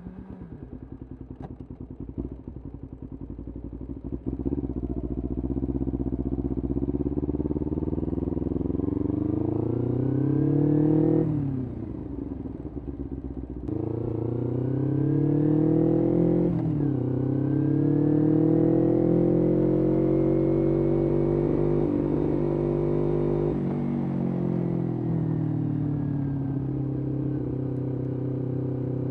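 Kawasaki Ninja 250R's parallel-twin engine through a full Graves racing exhaust, accelerating up through the gears: the pitch climbs, drops sharply at upshifts about eleven and seventeen seconds in, then holds at a steady cruise and steps down about twenty-three seconds in.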